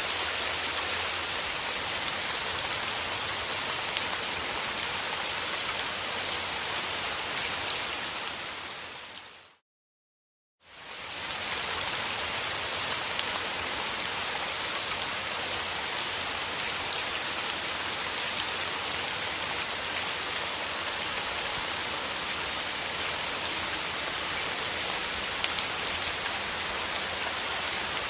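Steady rain falling. About nine seconds in it fades out to a second of silence and fades back in, as at the loop point of a recording.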